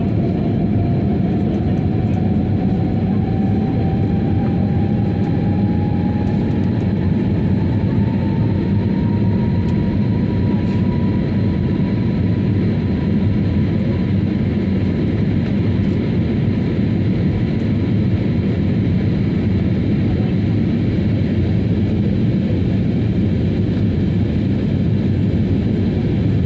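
Airliner cabin noise during take-off: a loud, steady rumble with an engine tone rising in pitch over the first ten seconds or so, then holding steady as the engines reach take-off power.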